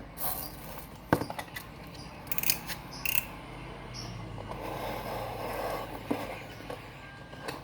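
Packaging being handled and opened: sharp clicks and scrapes, loudest about a second in, then a steadier rustle of plastic or paper for a couple of seconds.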